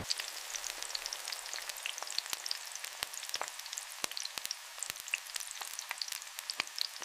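Sizzling and crackling of food frying: a steady high hiss dotted with many quick, sharp pops at irregular intervals.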